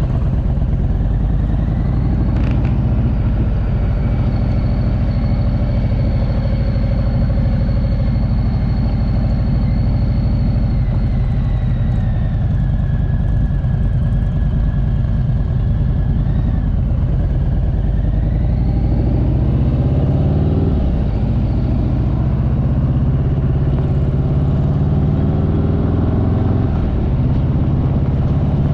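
Motorcycle riding along the road: loud, steady engine and wind noise, with the engine's pitch rising and falling a few times in the second half.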